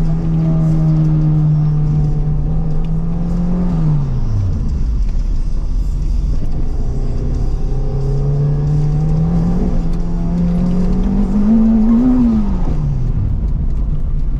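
Turbocharged Honda K-series four-cylinder of an Acura RSX under autocross driving. It holds steady revs, drops off about four seconds in, then climbs again from about eight seconds to a peak near twelve seconds before dropping off once more.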